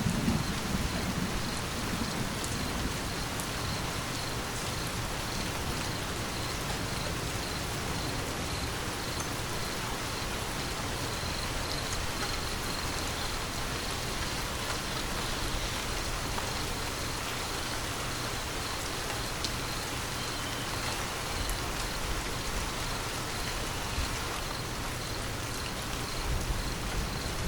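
Steady rain falling, an even hiss of many drops. The tail of a thunder rumble dies away in the first couple of seconds.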